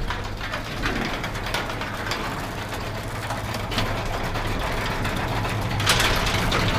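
A sectional garage door running on a belt-drive opener: a steady motor hum under a continuous, rapid rattling clatter, louder about six seconds in. The noise comes from the door's worn steel rollers and bearings, which are loose in the metal tracks.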